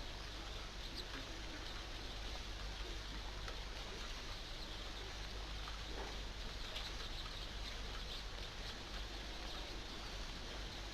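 Steady hiss of falling rain with light patter and scattered faint ticks.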